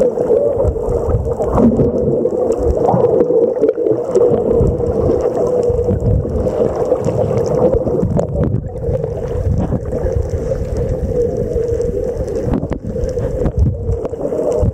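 A steady motor drone over rumbling, gurgling water noise.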